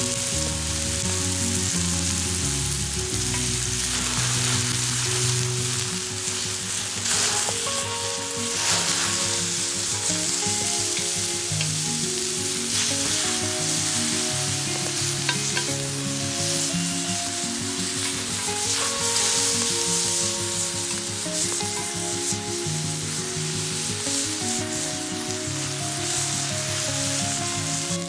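Food frying in a cast-iron skillet, sizzling steadily throughout, with a few scrapes and stirs.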